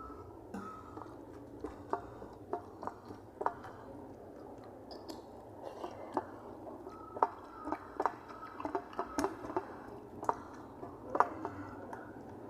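A person chewing rice and masoor dal with radish, with irregular sharp wet clicks and smacks of the mouth, coming more often in the second half.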